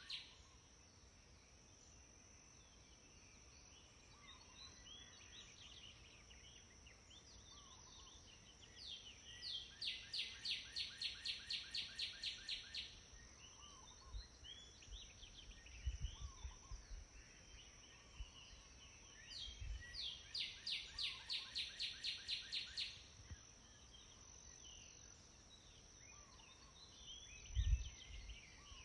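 Birdsong: one bird repeats a rapid run of high notes, about five a second, twice for a few seconds each, among other scattered chirps, over a steady high hiss. A few soft low thumps come in the second half.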